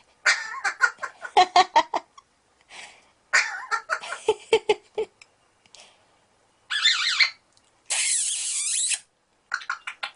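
Eclectus parrot vocalising: quick runs of short, mumbled chattering notes, then a harsh, hissy screech about a second long in the second half.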